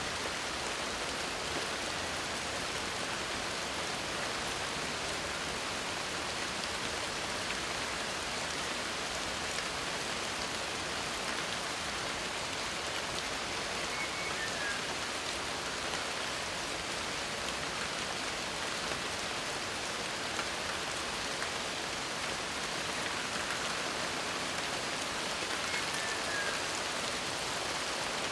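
Steady rain falling, an even hiss with the fine patter of drops hitting a surface.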